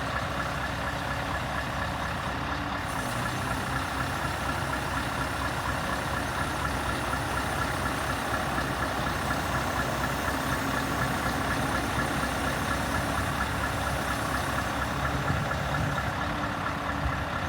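Scania R580's V8 diesel engine running steadily at idle.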